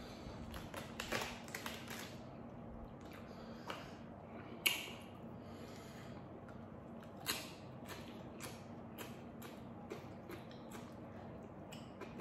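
Close-up eating sounds: crunching and chewing raw purple cabbage with rice, with scattered sharp crunches and clicks, the loudest about five seconds in. A faint steady hum runs underneath.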